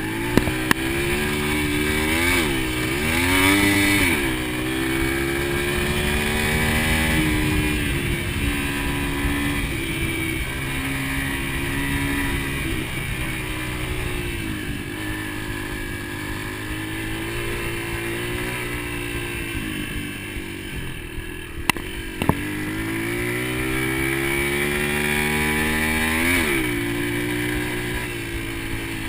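Dirt bike engine running and revving, its pitch climbing and dropping several times as the throttle is worked, with a few sharp clicks.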